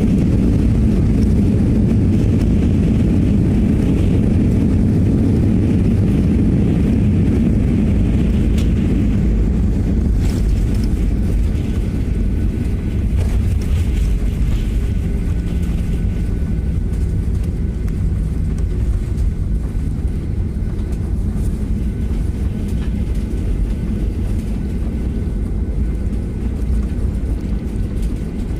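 Steady rumble of a jet airliner heard from inside the cabin just after landing: engine and airflow noise. It is loudest for the first several seconds, then eases a little as the plane slows.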